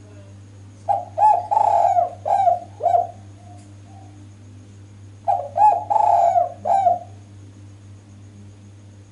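Female spotted dove (derkuku) cooing: two phrases of several low coos each, one starting about a second in and one about five seconds in. A steady low hum runs underneath.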